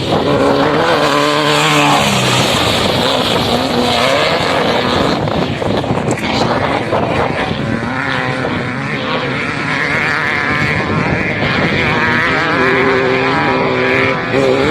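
Motorcycle engine running under load, its revs rising and falling several times as the rider works the throttle, over a steady rush of noise.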